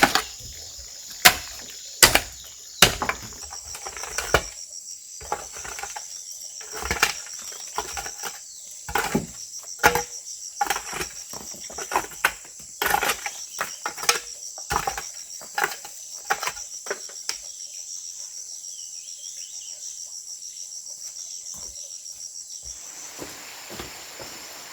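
A steady, high, pulsing insect chorus of crickets that stops shortly before the end, under many irregular sharp knocks and clicks.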